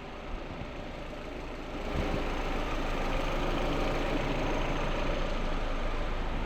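A steady mechanical running noise with a hiss, stepping up in loudness about two seconds in.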